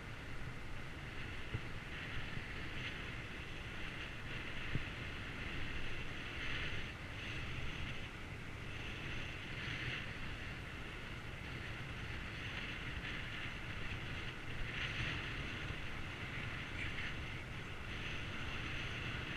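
Wind rushing over a GoPro's microphone during a bicycle ride, over a steady low rumble of the ride; the hiss swells and eases every few seconds.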